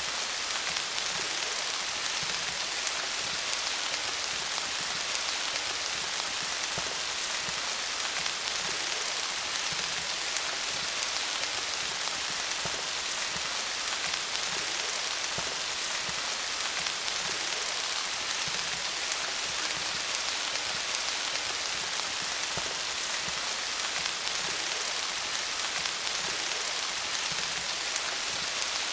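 Steady rain falling on leaves, a dense patter of countless drops with no letup.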